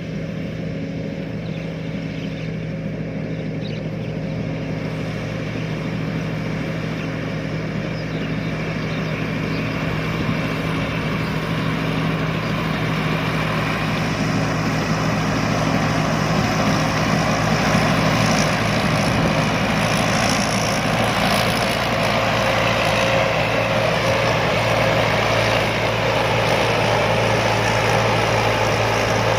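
Combine harvester running, its engine giving a steady low tone, with the noise growing louder and fuller from about ten seconds in.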